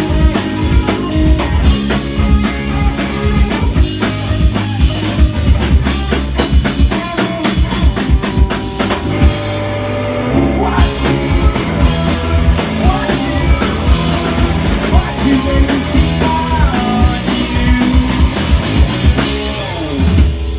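Live rock band playing loudly, a drum kit driving a steady beat with kick drum and rimshots under the instruments. The cymbals and high end drop out briefly about halfway through, then the full band comes back in.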